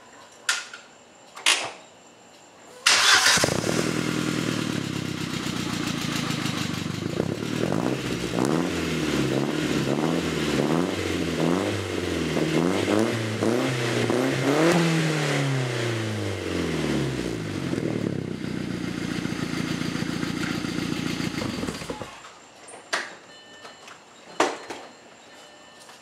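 A few clicks, then the 1998 Audi A4's turbocharged four-cylinder engine starts about three seconds in and idles through an aftermarket 3A Racing performance muffler. It is revved several times, the pitch rising and falling with each blip, then settles back to idle and is switched off near the end, followed by a couple more clicks.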